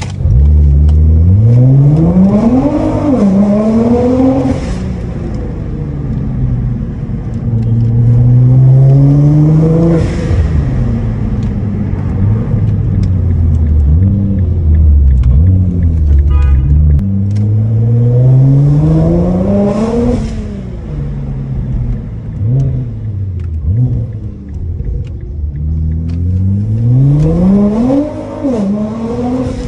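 Nissan GT-R R35's twin-turbo 3.8-litre V6 heard from inside the cabin, accelerating hard four times: the engine pitch climbs, dips briefly at a gear change, and falls away as the throttle lifts, with a lower rumble in between.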